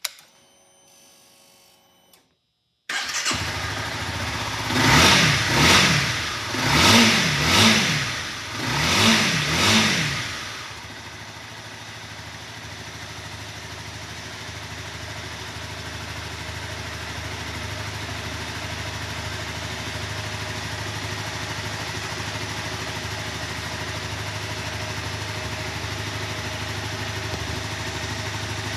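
Honda CBR250R's single-cylinder engine starting up near three seconds in after a short faint whir. It is blipped to a higher pitch about six times in quick pairs, then settles into a steady idle.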